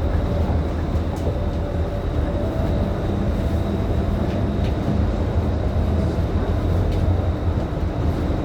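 Scania K310IB city bus on the move, heard from inside: its engine runs at a steady low drone under road and rolling noise, with a faint steady high whine.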